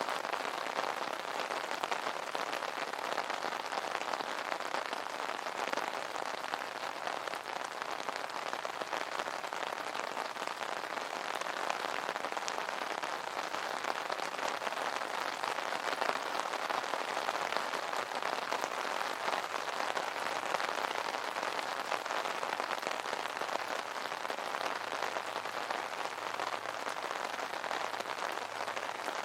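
Steady rain pattering on an umbrella canopy, a dense even patter of drops.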